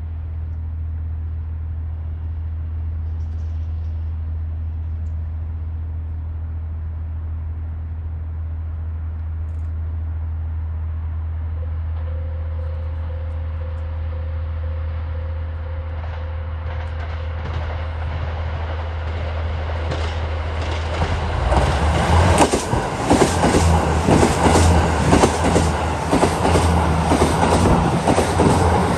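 A steady low hum, then a KiHa 85 diesel express train approaching and growing louder from about 17 s in. From about 21 s it passes close by with loud, rapid wheel clatter over the rail joints and points.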